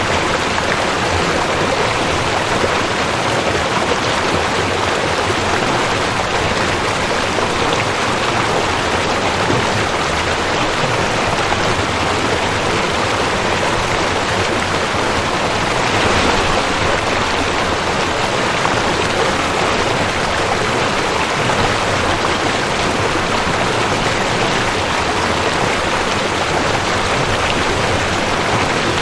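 Rushing creek: fast water running over rocks, a steady, even rush.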